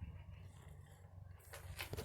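Faint handling of a plastic toy airplane over a steady low hum, with a few light clicks and rustles near the end.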